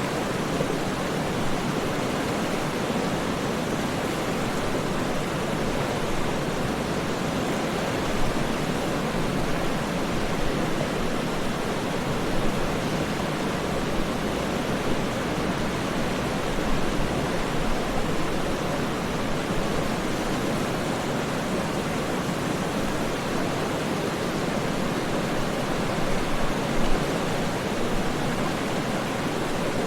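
Waterfall: falling water making a continuous, even rushing noise, with small swells now and then.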